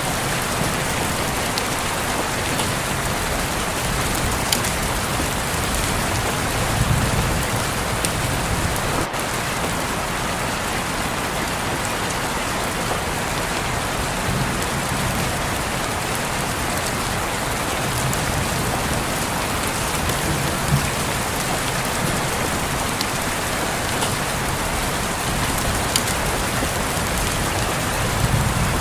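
Steady rain falling on a window pane, an even rushing patter with a few sharper drop ticks standing out now and then.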